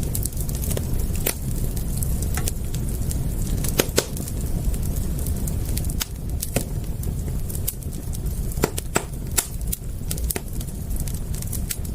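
Wood fire crackling: irregular sharp pops and snaps, one louder pop about four seconds in, over a steady low rumble.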